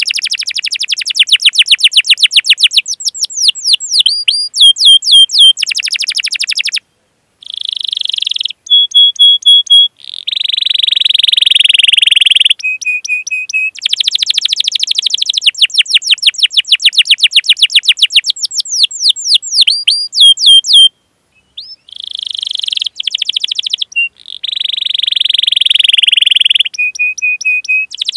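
Domestic canary singing a long rolling song: fast trills of rapidly repeated chirps, steady whistled notes and harsh buzzy phrases. It pauses briefly about a quarter of the way in and again about three quarters in.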